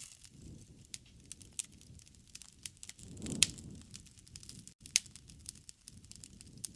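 Wood fire crackling, with a steady scatter of small snaps over a low rumble of burning. Two sharp, louder pops come about halfway through, a second and a half apart.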